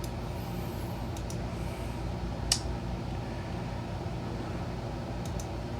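Steady low electrical hum of room background noise, with one sharp click about two and a half seconds in and a few fainter ticks.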